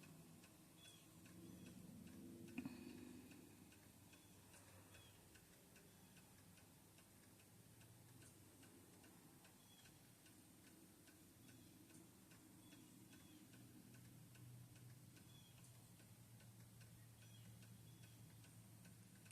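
Near silence: room tone with faint, regular ticking.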